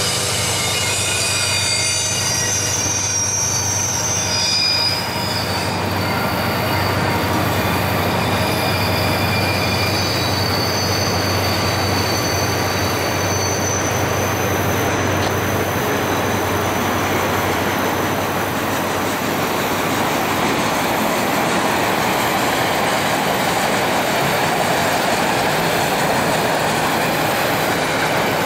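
Autorack freight cars rolling past, a steady rumble of wheels on rail. High wheel squeals rise and fade over it, several at once in the first few seconds and a long thin one later in the first half.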